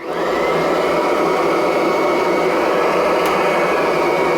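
Kirby Avalir upright vacuum cleaner switched on, its motor spinning up within the first half second with a quickly rising whine, then running at full speed with a steady high whine over a loud rush of air, its new drive belt turning the brush roll.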